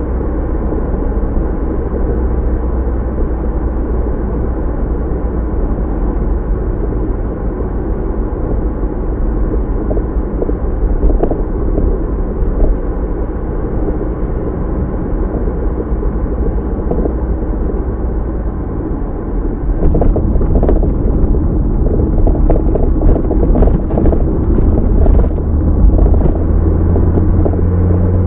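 Car driving, as picked up by a dashcam: a steady low rumble of tyres and engine. It gets louder about two-thirds of the way through, with a few short knocks, and a steady low engine note comes in near the end.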